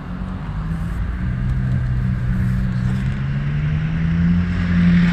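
Vehicle engine running and speeding up, a low hum that grows louder and rises slowly in pitch.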